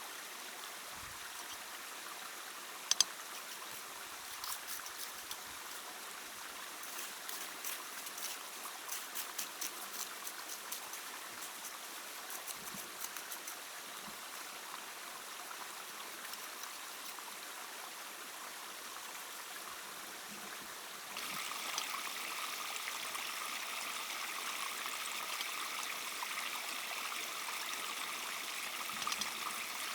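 Stream water running steadily, with a sharp click about three seconds in and a patch of light ticks a little later. About two-thirds of the way through, the water sound suddenly becomes louder and brighter.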